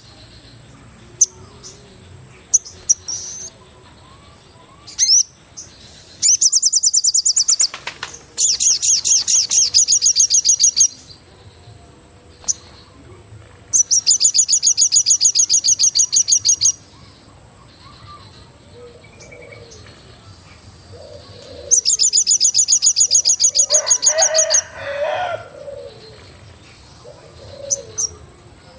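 Forest wildlife soundscape: loud bursts of rapid, high-pitched trilling, each lasting two to three seconds and coming four times, over a thin, steady high insect-like whine. Softer, lower bird calls, including cooing, come in the second half.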